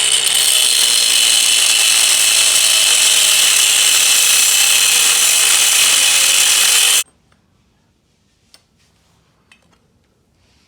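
Power tool cutting through a steel exhaust hanger, running at a steady speed with a high hiss and whine for about seven seconds, then stopping suddenly; a few faint clicks follow.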